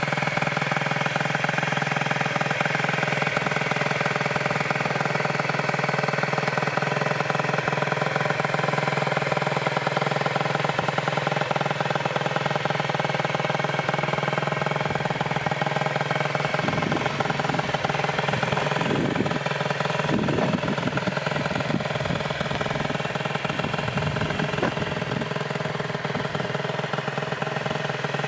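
2002 Gilera DNA50's 50cc two-stroke single-cylinder engine idling steadily at an even pitch, with a few brief low bumps about two-thirds of the way through.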